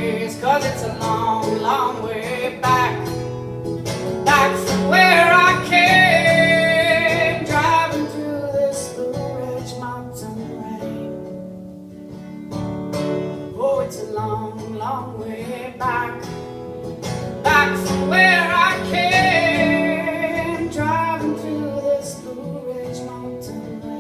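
Live acoustic song: acoustic guitar accompaniment under a wavering melody line, which comes in phrases.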